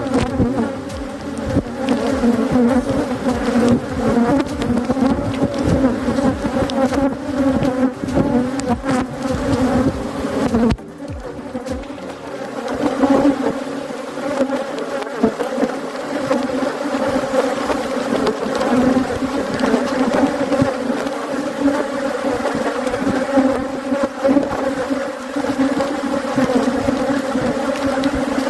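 A honeybee colony buzzing loudly around an opened hive, a continuous deep hum. Many brief knocks sound over it in roughly the first eleven seconds.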